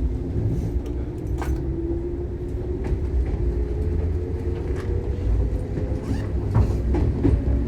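Shinano Railway 115-series electric train heard from inside the car, gathering speed: the traction motors' whine rises slowly in pitch over a heavy low running rumble, with a few sharp clicks and knocks.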